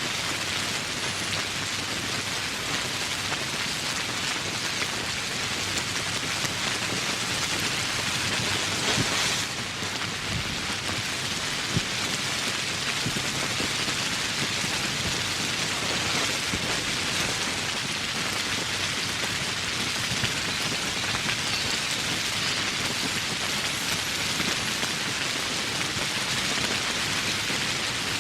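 Steady, heavy tropical rain falling in an even, dense hiss.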